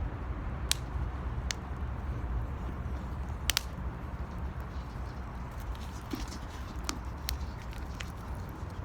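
Wood fire burning in an 18-litre metal can, giving off a handful of sharp crackles and pops a second or more apart over a steady low rumble.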